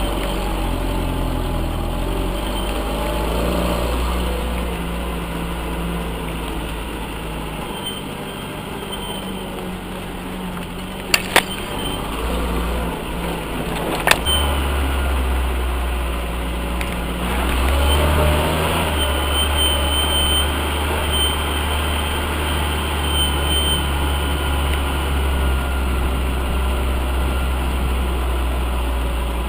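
UAZ off-road vehicle's engine running under load as it drives, its note shifting lower and higher several times. About a third of the way through come two sharp knocks close together, then another a few seconds later.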